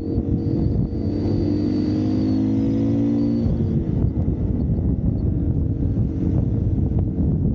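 Dirt bike engine pulling at a steady pitch, then easing off after about three and a half seconds into a rough, uneven rumble with scattered knocks from the bike over rough ground.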